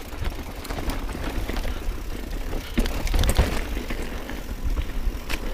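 Mountain bike ridden over rough, sandy trail: tyres rolling on loose ground and the bike rattling with many quick clicks and knocks over bumps, heaviest about three seconds in, over a steady low rumble.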